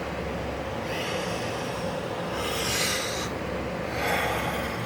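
A person breathing and sniffing close to the microphone, a few separate breaths over a steady background hiss.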